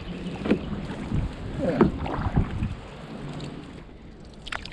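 Kayak paddle strokes dipping and splashing in the water, irregular strokes over a steady wind hiss on the microphone, with a sharp tap near the end.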